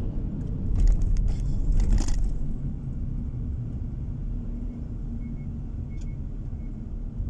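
A car driving along a road: steady low rumble of engine and tyres, with a louder rush of noise about one to two seconds in.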